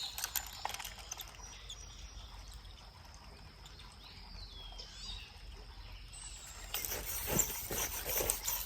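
Quiet outdoor creek-side ambience with a single bird call midway, then a louder run of clicking and rustling near the end.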